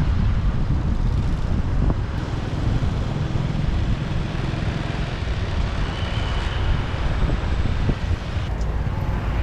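Motorbike riding through city traffic: a steady rumble of wind on the microphone mixed with engine and road noise.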